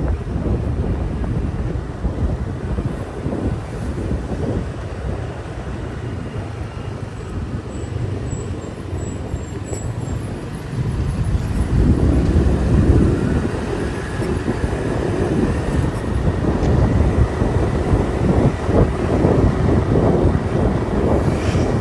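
Motorbike ride: the engine and tyres running on the road, with wind rushing over the microphone. The rumble grows louder about halfway through.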